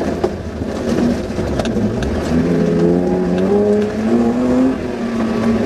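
Off-road Suzuki Vitara's engine heard from inside the cabin under hard driving, revving up with its pitch rising through the middle and easing near the end. Scattered knocks and rattles sound over it.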